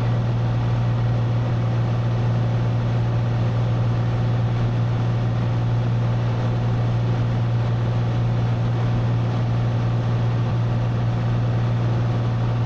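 Steady drone of a Cessna 182 Skylane's six-cylinder piston engine and propeller in cruise flight, heard inside the cabin. It is one deep, even hum with noise above it, unchanging throughout.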